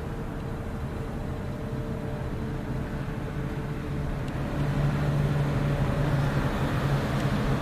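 Passenger boat's engine running with a steady low hum and rumble, which grows louder about four and a half seconds in.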